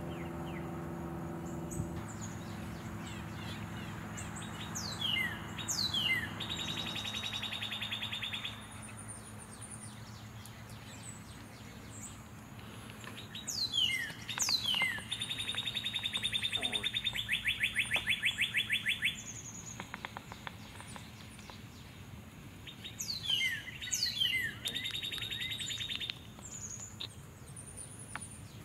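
A songbird singing the same song three times, each a couple of quick downward-slurred whistles followed by a fast, even trill lasting a few seconds. A low steady hum sits underneath, louder in the first several seconds.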